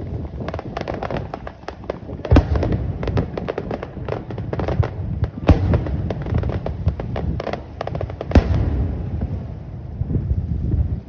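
Aerial fireworks display: three loud bursts about three seconds apart, with dense crackling from the shells between them.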